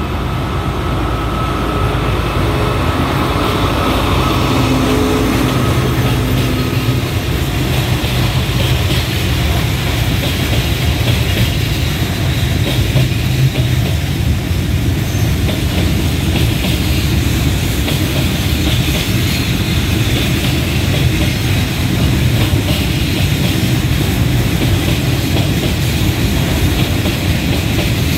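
A diesel locomotive passes close by, its engine note heard over the first few seconds. A long container freight train then rolls past, a steady rumble of wagon wheels on the rails with clickety-clack over the rail joints.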